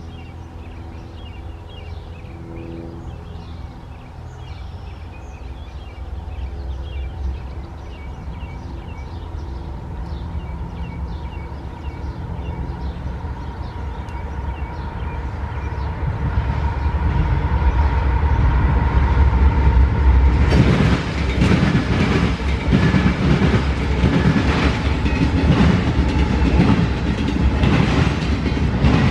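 CSX intermodal freight train I010 approaching and passing close. Its diesel locomotives' engines grow steadily louder, then about twenty seconds in the train is alongside and the wheels clack rapidly and loudly over the rails.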